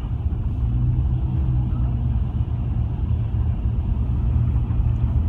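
Road vehicle noise: a steady low rumble of cars on a highway.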